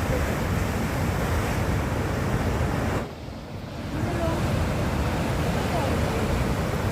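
Sea waves surging on a rocky shore, with strong wind buffeting the microphone. The rushing noise drops away for about a second, about three seconds in, then returns.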